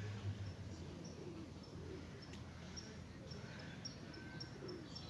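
Small birds chirping in a park: a run of short, high, repeated chirps in the second half, over faint outdoor background noise.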